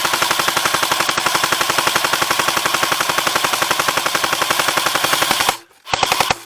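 Airsoft gun firing on full auto: one long rapid burst that stops about five and a half seconds in, then a short second burst near the end.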